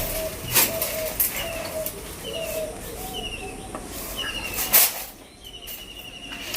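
A bird calling over and over, a short falling note about every half second, with a steady high note in the last second and a half. Two loud, sharp bursts cut across it, one about half a second in and one just before the five-second mark.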